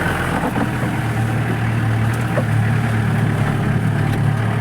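Off-road jeep's engine running with a steady low drone that grows a little stronger about a second and a half in.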